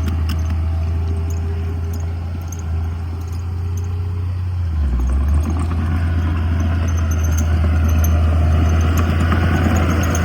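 Diesel engine of heavy earthmoving machinery running with a deep, steady drone. About halfway through, the drone dips briefly, then the engine works harder, growing louder and rougher, with faint clanks of metal.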